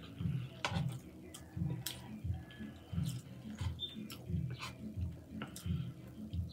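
Close-miked chewing of a mouthful of chili cheese fries: a steady rhythm of soft chews, roughly two a second, with small wet mouth clicks.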